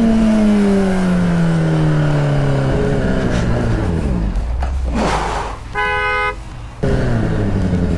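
A vehicle engine running, its pitch falling steadily over the first few seconds as it slows down. About six seconds in, a vehicle horn gives one short beep, and the engine then runs on at a steady pitch.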